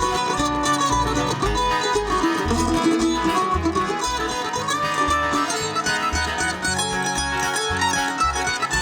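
Bluegrass band playing an instrumental break between sung choruses, plucked strings over a steady bass beat.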